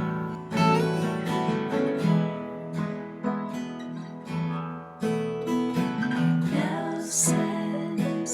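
Acoustic guitar music: strummed and plucked chords ringing on, with no voice over them.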